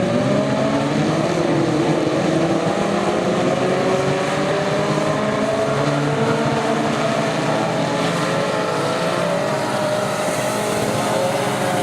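Tough truck racing engines running hard under throttle, the pitch climbing early on, then rising and falling as the drivers work the throttle.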